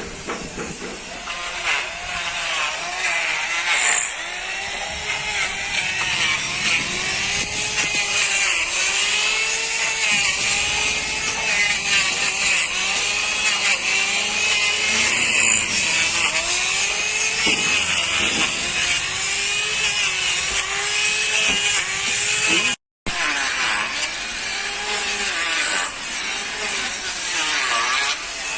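Hand-held electric power tool running under load, its motor pitch dipping and recovering over and over, roughly once a second, as it is pressed into the work. The sound drops out for a moment about three-quarters of the way through, then carries on.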